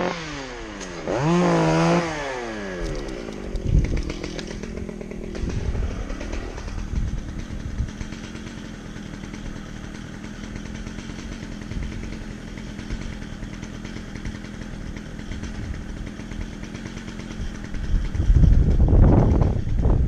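Chainsaw revving up and back down, then running more quietly at a lower, steady pitch. It turns much louder near the end.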